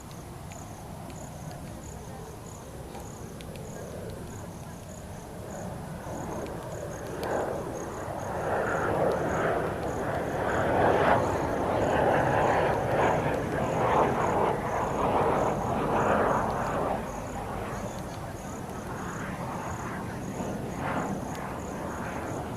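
Engine noise of a passing vehicle swells over several seconds, is loudest mid-way and fades again. Throughout, a high insect chirping pulses at an even rate.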